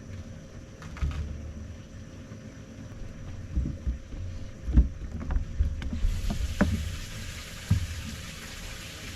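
Knocks and thumps on a bass boat's hull over a wind rumble, with a faint steady hum from the livewell pump just switched on. About six seconds in, a steady hiss sets in.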